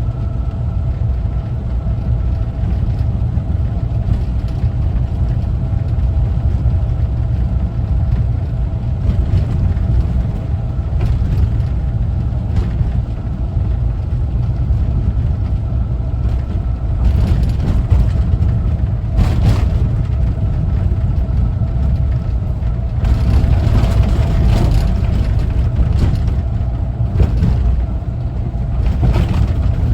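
1974 Volkswagen Westfalia camper van driving, its air-cooled flat-four engine running with a steady drone and a deep rumble of road noise. Now and then brief swells of louder noise pass over it.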